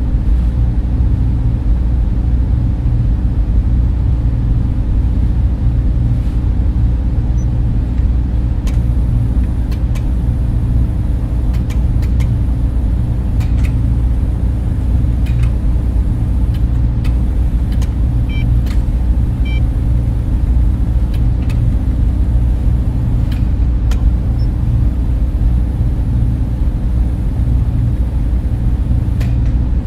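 Steady, low-pitched hum and whoosh of server room cooling fans running continuously, with a few faint scattered clicks.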